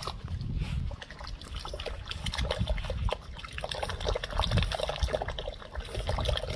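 Small dog splashing and dabbling in a muddy puddle: irregular wet splashes and trickling water, over a low rumble.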